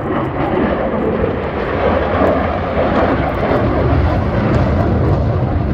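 Jet aircraft engine noise: a loud, steady rumble with no break.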